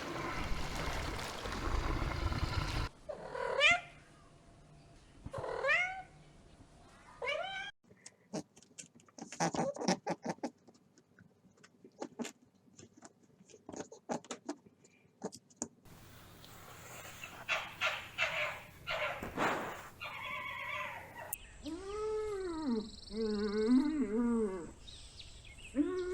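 Several short clips of animal calls follow one another with abrupt cuts between them. First come three short rising calls, then a stretch of rapid clicking, then a run of arching, wavering calls near the end.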